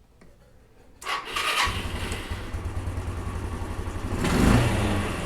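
1993 Yamaha Riva 125 scooter's single-cylinder four-stroke engine started on the electric starter: about a second in a brief crank, then it catches and settles into a steady idle, with a short throttle blip near the end. The starter now works after a dirty contact at the starter relay was cleaned.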